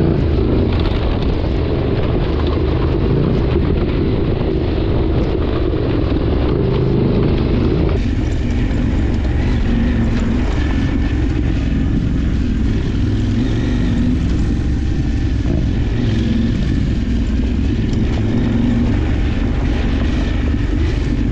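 Adventure motorcycle engine running steadily while riding, a dense, continuous low rumble. The sound changes character abruptly about eight seconds in.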